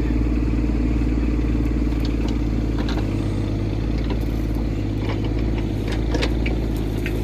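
Excavator's diesel engine running steadily, its note shifting slightly about three seconds in. Scattered clanks and knocks are heard over it from about two seconds in.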